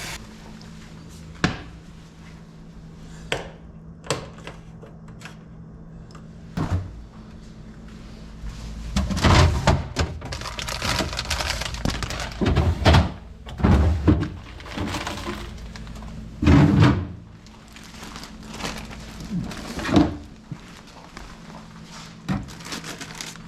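Handling noise of cookware and supplies: scattered knocks and heavy thunks, busier in the middle, over a steady low hum.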